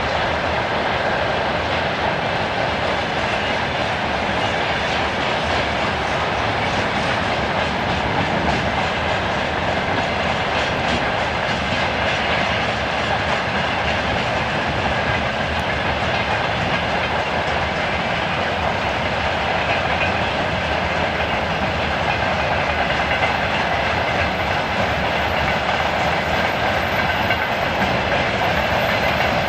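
A freight train rolling past at a steady pace, its wagon wheels clattering rhythmically over the rail joints, with an even rumble and no let-up.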